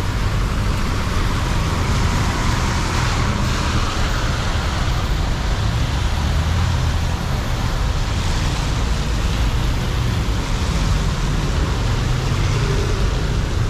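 Steady city street traffic on wet roads: vehicle engines rumbling underneath with a continuous hiss of tyres and rain on the wet street.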